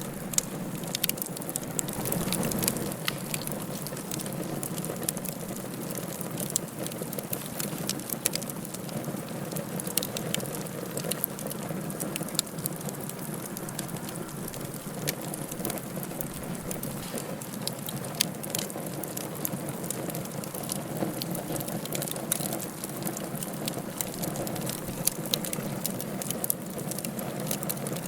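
Wood fire burning in a fireplace, crackling steadily, with frequent irregular sharp pops and snaps over a continuous low hiss.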